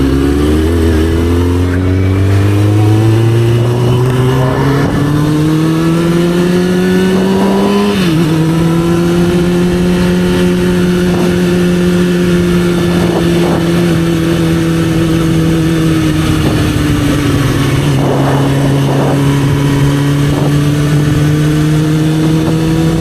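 2004 Kawasaki ZX-6RR's inline-four engine under way, climbing in pitch as it accelerates, dropping once about eight seconds in at a gear change, then holding near steady at cruise.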